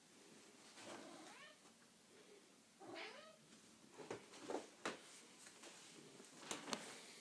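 Domestic cat meowing twice, about two seconds apart, each call gliding in pitch. A few sharp taps follow in the second half.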